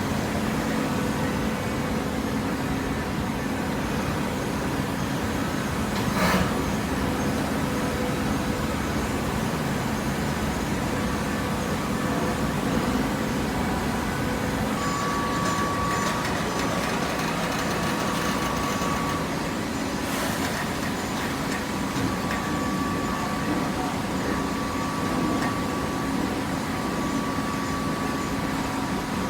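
Hydraulic cardboard baler running, its motor and pump giving a steady hum. A higher whine comes and goes through the second half, and there is a sharp click about six seconds in and another about twenty seconds in.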